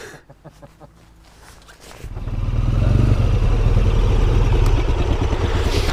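Motorcycle engine comes in about two seconds in, rising over a second to a loud, steady low rumble as the bike gets under way.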